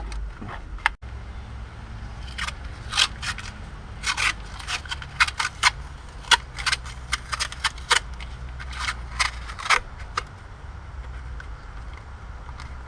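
Wrapping material being crinkled and ripped around an engine part to protect it: a run of sharp, irregular crackles and rips, thickest from about two to ten seconds in, over a steady low hum.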